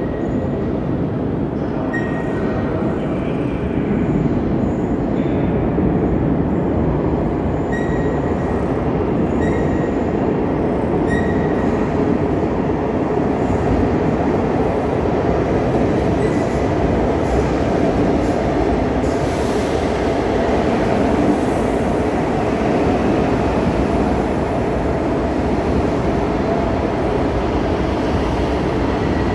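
Renfe Cercanías electric commuter trains in an underground station: a loud, steady rumble of wheels and running gear, with several brief high wheel squeals in the first ten seconds or so. One train comes in while another runs past close alongside the platform.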